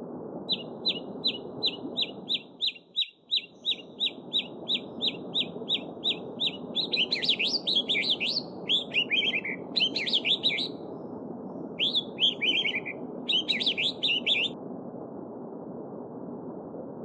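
Small songbird singing over a steady babbling stream: first a long run of short, evenly repeated high notes, about three or four a second, then several quick warbling phrases that end a few seconds before the end. The stream's rush drops out briefly about three seconds in.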